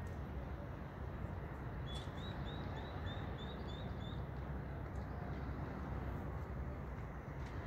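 A bird calls a quick run of about eight short rising chirps, roughly four a second, over a steady low rumble and hiss.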